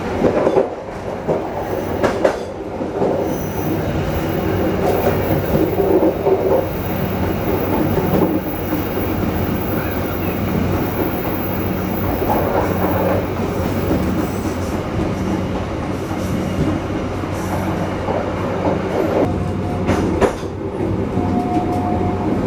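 Passenger train running into a station, heard on board: a steady rumble of wheels on rail with sharp clacks over rail joints and points, and a brief high wheel squeal twice near the end.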